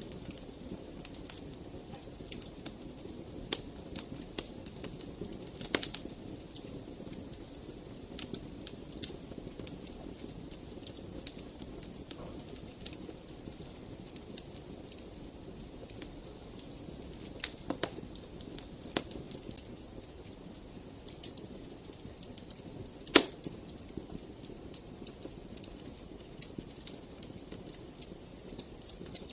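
Wood fire crackling: irregular sharp snaps over a steady low noise of the flames, with one loud pop about 23 seconds in.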